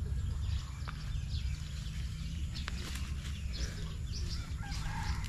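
Birds chirping in many short calls over a steady low rumble, with a few sharp clicks.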